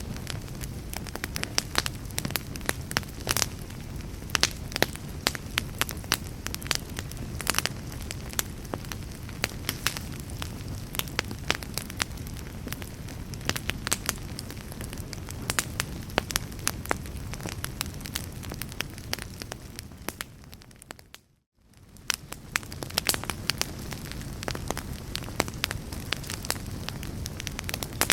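Wood fire burning in a fireplace: logs crackling with frequent sharp snaps over a low steady rumble. About three-quarters of the way through, the sound fades out almost to silence for a moment and then fades straight back in.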